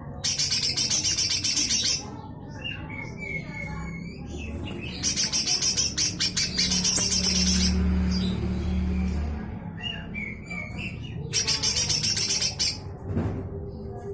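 Cucak hijau mini (lesser green leafbird) giving harsh, rasping 'besetan' calls: three loud bursts of rapid scratchy notes, with softer short chirps in between.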